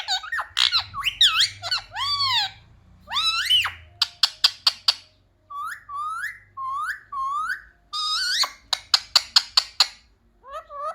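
Indian ringneck parrot calling: sharp chirps and whistled glides up and down, a series of five short rising whistles near the middle, then a fast string of sharp chirps.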